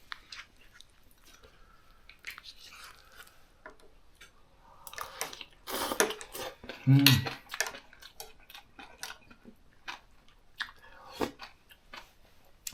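People eating soup with spoons and chopsticks: utensils clicking against bowls, chewing, and a noisy spell of eating about five to six seconds in. A short low voice sound about seven seconds in.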